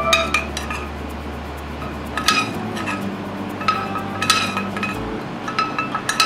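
A metal spoon clinking against a ceramic plate several times as red-wine sauce is spooned over the plated beef cheeks, each clink ringing briefly. Soft background music plays underneath.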